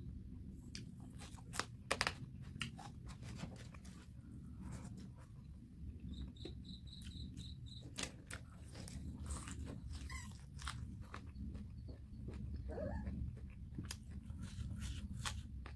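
Close-miked chewing and lip-smacking of someone eating chicken curry and rice with the hand, many small wet clicks over a low steady background hum. A brief run of faint high-pitched chirps comes about two-thirds of the way through.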